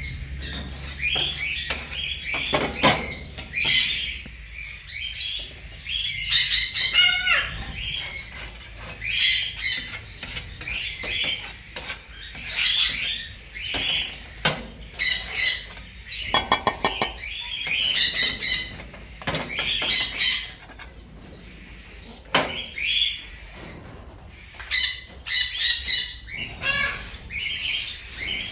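Small parrots chirping and squawking in a busy, overlapping chorus of short, sharp calls, with a fast rattling trill about sixteen seconds in.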